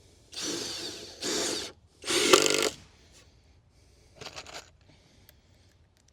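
Cordless power drill running in three short bursts, the last one the loudest, followed by a few faint clicks.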